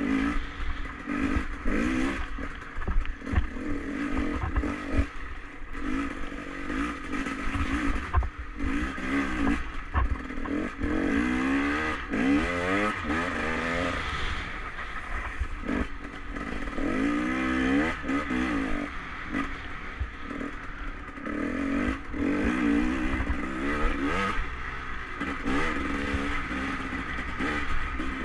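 Enduro motorcycle engine running under way, its revs climbing and falling again and again as the throttle is opened and eased off, with knocks and rattles from the bike over the rough trail.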